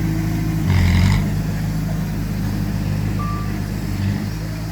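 Heavy diesel earthmoving engine running steadily, with a brief louder hissing burst about a second in and a single short high beep from a reversing alarm about three seconds in.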